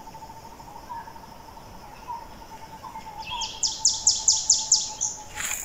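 Forest ambience with a steady faint high drone of insects; about three seconds in a bird calls a rapid run of about ten sharp falling notes, about six a second, growing louder. A brief knock comes just before the end.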